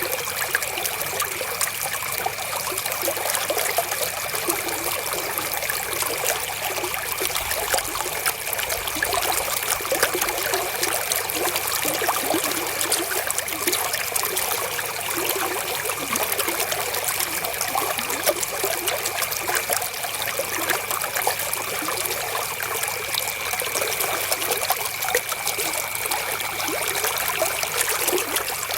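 River water flowing and trickling steadily over stones, with a thin, steady high tone beneath it.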